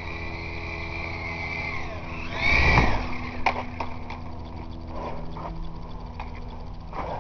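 Small electric RC helicopter (Blade CX2 coaxial) running, its motors whining and rotors humming steadily, with a loud surge about two and a half seconds in where the pitch rises and falls as the throttle is worked against the wind. Scattered short ticks and knocks follow.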